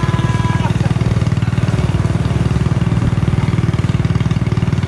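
Small motorbike engine running steadily at low speed with a rapid, even exhaust beat.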